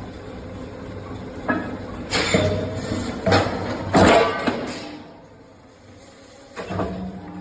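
A few sharp knocks and clinks, irregularly spaced, the loudest about four seconds in.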